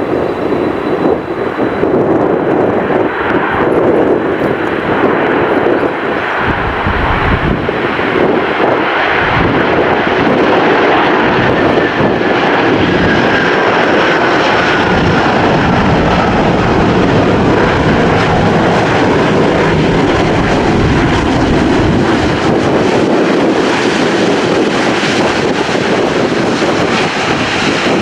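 Airliner engines running loud and steady at close range, with a faint whine that falls in pitch around the middle. Strong wind gusts buffet the microphone between about six and ten seconds in.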